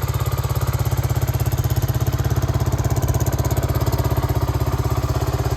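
Single-cylinder four-stroke engine of a restored 1995 Suzuki DR250S idling steadily with a rapid, even pulse.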